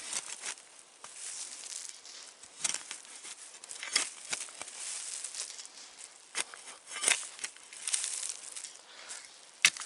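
Digging a small pit in dry, stony soil: irregular scrapes and crunches of earth, with sharp clicks where the tool strikes stones, the loudest near the end.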